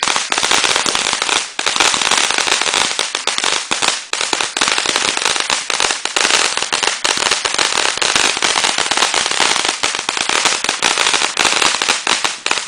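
Sparkler fountain firework crackling densely and continuously, a rapid stream of tiny pops, then stopping abruptly near the end.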